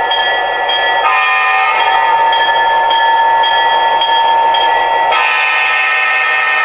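Onboard sound system of an MTH Premier SD24 model diesel locomotive: a steady diesel engine sound from the loco's speaker, with a short multi-tone horn blast about a second in and a longer horn blast starting about five seconds in.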